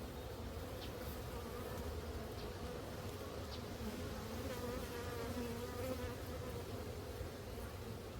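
Honeybees buzzing in flight around an opened hive: a steady, many-voiced hum with pitches that waver up and down.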